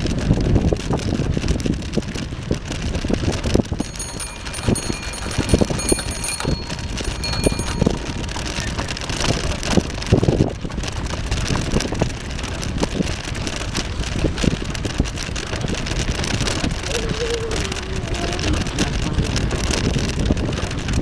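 Wind buffeting the microphone during a bicycle ride, with many small knocks and rattles from the bike going over a bumpy path. A steady high-pitched squeal sounds for a few seconds about four seconds in.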